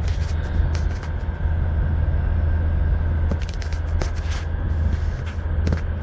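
Car driving, heard from inside the cabin: steady low rumble of engine and road, with a few short, irregular clicks.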